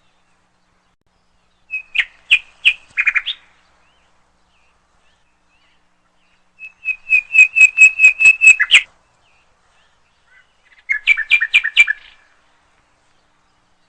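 A small songbird singing three short phrases of rapid repeated chirps, with pauses of a few seconds between phrases. The middle phrase is the longest, about two seconds of quick even notes.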